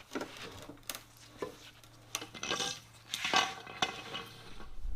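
Scattered light metallic clinks and knocks with a couple of short scraping rustles, from metal parts being handled.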